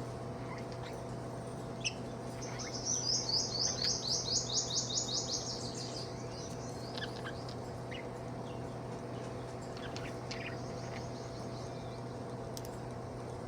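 Budgerigar chirping: a quick run of about a dozen high chirps, roughly four a second, starting a couple of seconds in, then a fainter, shorter run about ten seconds in.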